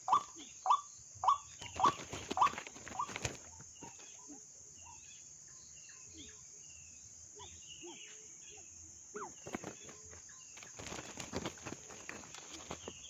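White-breasted waterhen calling: a series of about six sharp calls roughly every half second, stopping about three seconds in. Faint chirps of other small birds follow, and a brief rustle of vegetation near the end.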